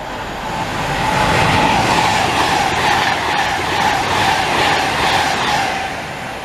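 A train passing at speed: its rush of noise builds about a second in, holds with a steady whine, and fades away near the end.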